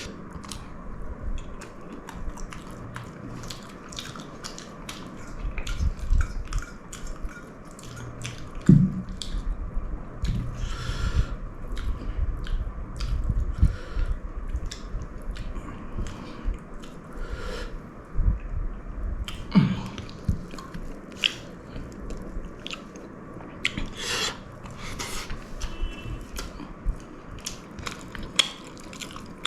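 A person chewing a meal of pulao rice with chicken curry and soft potato close to the microphone, with many short mouth clicks and smacks throughout and an occasional louder knock.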